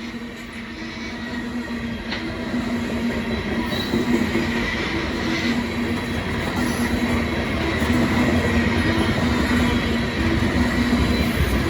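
Freight train rolling past, steel wheels on rail with a thin, steady high squeal, getting louder through the first few seconds and then holding loud.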